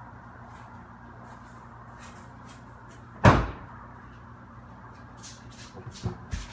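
A door slamming shut once, a single loud bang about halfway through, followed near the end by a few small knocks.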